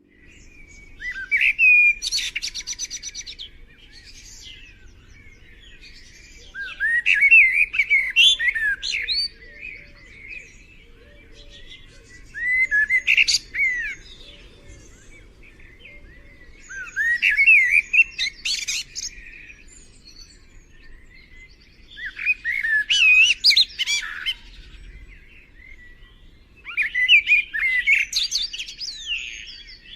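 A songbird singing a varied phrase of quick chirps and whistles about every five seconds, six phrases in all, with faint low rumble between them.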